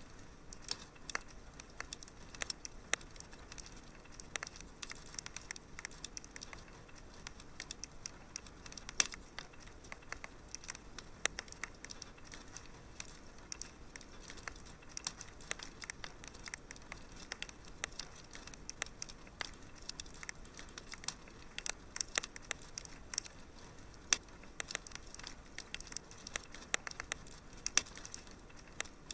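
Wood fire crackling in a fireplace: irregular small snaps and pops over a soft steady hiss.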